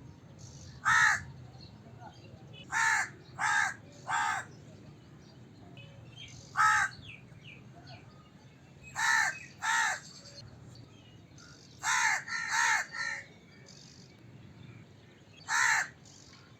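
Crow cawing: about eleven short harsh caws, some single and some in quick runs of two or three, with pauses of a second or more between.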